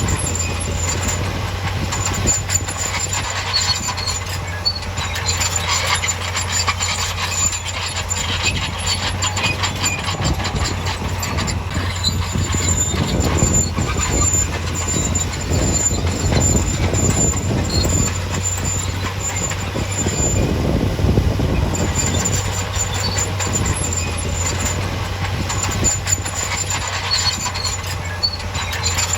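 Bulldozer working: its diesel engine runs steadily under continuous clanking and squealing from the steel tracks.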